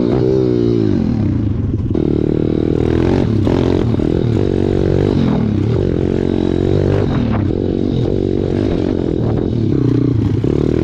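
Pit bike engine being ridden, its pitch rising and falling again and again as the rider opens and closes the throttle.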